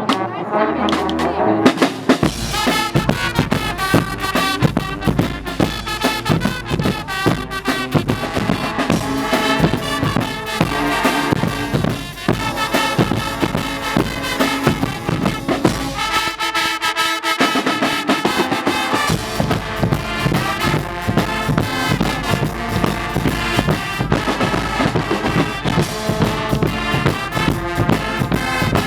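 Guggenmusik carnival band playing: a brass section of trumpets and trombones over a steady beat of bass drum and drums. The bass drops out briefly about two-thirds of the way through.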